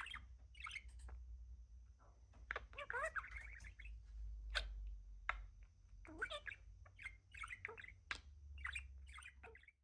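Pet budgerigar (budgie) chattering: a run of quick chirps, warbles and clicks with short pauses between.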